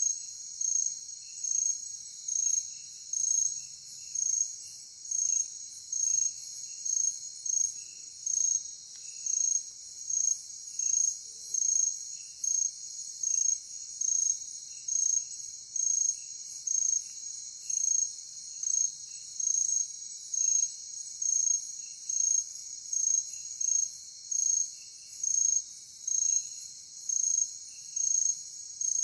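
Night-time insect chorus: a steady high shrill of many insects, with one loud cricket chirping evenly, about three chirps every two seconds, and fainter chirps lower down.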